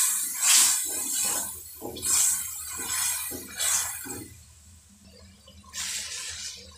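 Tomato masala sizzling in hot oil in a metal kadhai as a spatula stirs it, with a little water just added, each stroke bringing a burst of sizzle. The bursts die down after about four seconds, with one more near the end.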